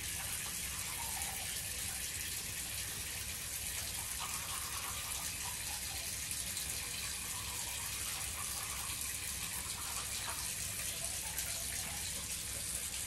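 Sink tap running steadily in a bathroom.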